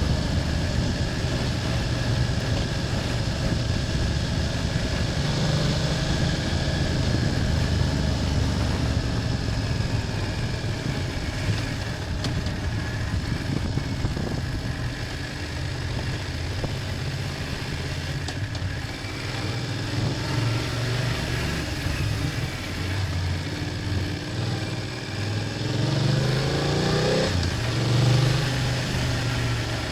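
BMW F800GS parallel-twin engine running on the move. It is quieter through the middle, then revs up with a rising pitch a few seconds before the end.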